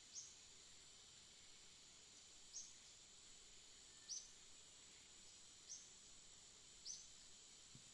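A bird repeating a short, high chirp that slides quickly downward, five times about every one and a half seconds, over a faint steady high-pitched hiss.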